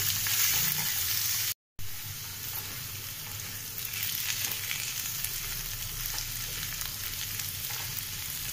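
Diced potatoes and onions sizzling in hot mustard oil in a metal kadai on a high flame, stirred with a wooden spatula, with small scrapes and taps against the pan. The sound drops out for a moment about a second and a half in.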